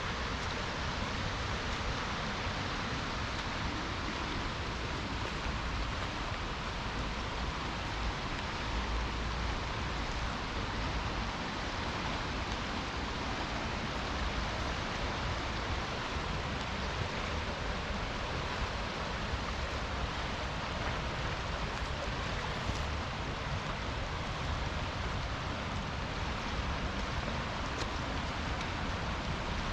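Steady rain falling together with the continuous rush of a river.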